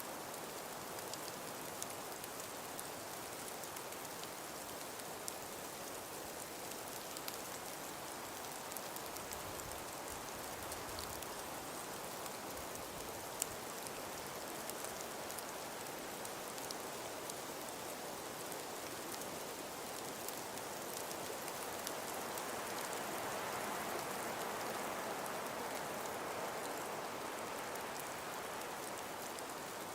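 Snowstorm ambience: wind and falling snow make an even rushing hiss with faint scattered ticks, the wind swelling for several seconds about two-thirds of the way through.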